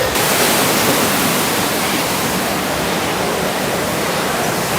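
Steady, loud rushing noise with no pitch, which sets in abruptly just after the start.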